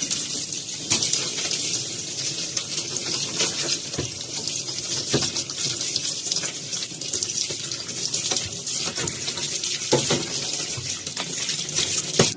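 Water running from a tap into a sink, with scattered knocks of items being handled in it, as for washing fridge shelves and drawers. The water cuts off suddenly at the end.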